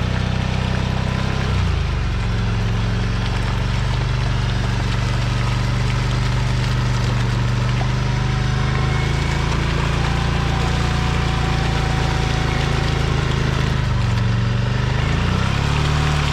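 ATV engine running at a steady, low speed while the quad crawls slowly over rough off-road ground. Its pitch shifts about two seconds in, then dips and rises again near the end.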